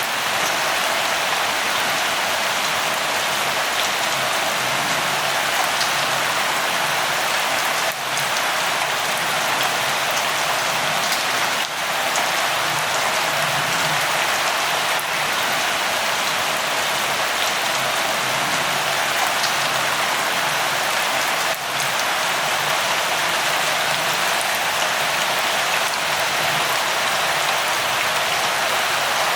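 Steady light rain falling, an even hiss of many drops.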